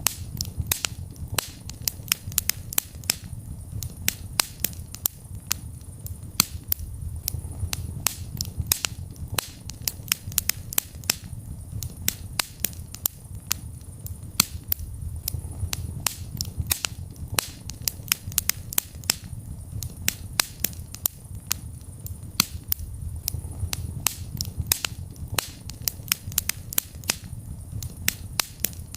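Wood fire in a fireplace crackling: frequent sharp, irregular snaps and pops over a low rumble of burning flames.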